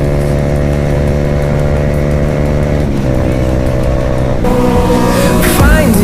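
Yamaha R15 V3's single-cylinder engine running hard at steady high revs, with wind noise. Its note steps down about three seconds in. Background music comes in about four and a half seconds in.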